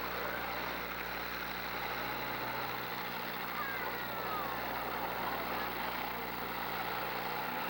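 Engines of battered demolition derby cars running and revving as they manoeuvre for hits, with a steady low hum underneath.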